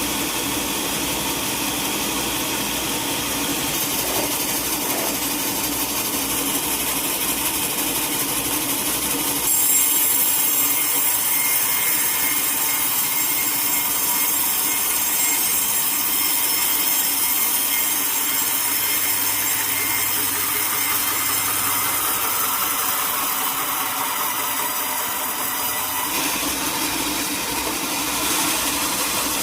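Sawmill saw cutting a teak log: steady machine running, with the higher, hissing sound of the blade in the wood growing louder about a third of the way in and easing off near the end.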